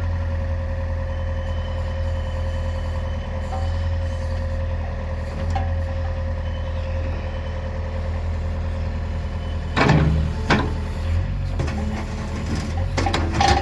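Hitachi hydraulic excavator's engine running steadily with a constant whine, and a few loud clanks about ten seconds in and again near the end.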